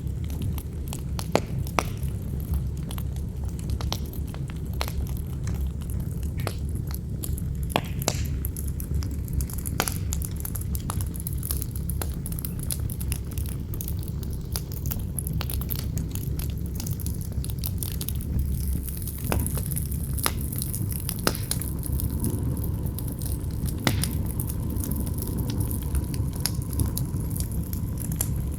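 Campfire crackling, with sharp irregular pops and snaps over a steady low rumble of wind. A faint steady whistle joins the wind about two-thirds of the way through.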